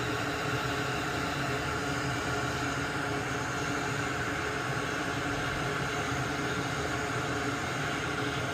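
Steady whirring hum and hiss of a small fan-driven bench tool running while solder is removed from a circuit board, even in level with no breaks.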